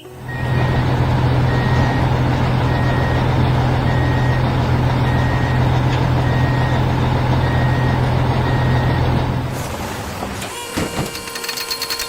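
A large vehicle's engine running with a reversing alarm beeping about once a second; both stop nearly ten seconds in, and a few sharp knocks follow.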